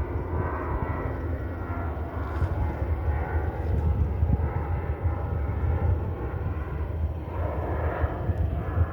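Jet airliner flying past, its engines a steady rumble with a faint whine, mixed with wind buffeting the microphone. The speaker takes the plane for a Boeing 737.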